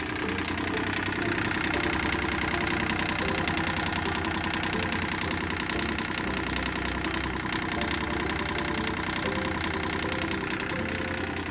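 Rebuilt Yanmar 3GM30F three-cylinder marine diesel running steadily at idle, with an even diesel knock, on its first start after a full rebuild.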